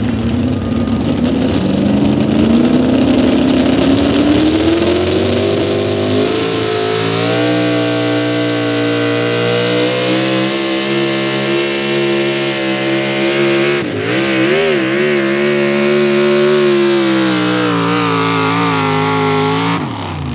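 Pro stock four-wheel-drive pulling truck's engine at full throttle on a pull: the revs climb over the first six seconds, then hold high, with a brief wobble in pitch about fourteen seconds in. The engine note drops away sharply near the end as the throttle is let off.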